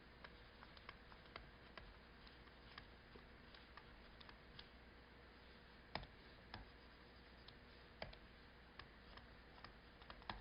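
Near silence with faint, irregular clicks and taps, a couple of slightly louder ones about six and eight seconds in.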